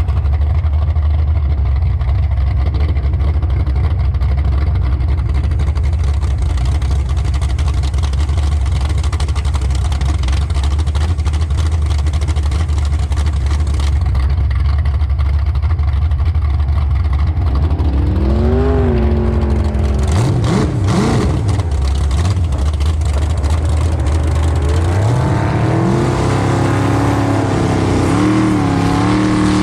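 A motor engine running steadily with a strong low drone, then revving in the last third, its pitch rising and falling several times.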